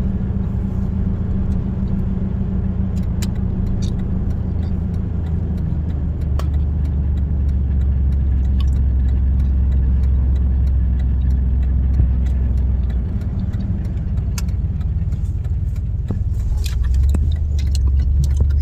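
Truck engine and road rumble heard from inside the cab as it drives, the low drone shifting a few times, with scattered light clicks and rattles.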